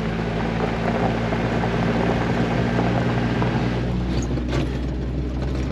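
Jeep Wrangler driving on a forest back road: a steady engine drone under tyre and road noise, with a few light knocks about four seconds in.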